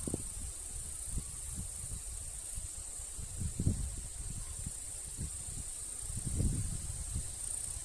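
Steady high-pitched hiss, with soft low rumbles rising briefly about three and a half seconds in and again around six seconds.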